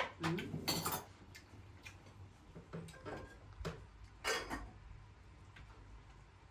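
Irregular light clicks and knocks of small hard objects, thickest in the first second and again around the middle.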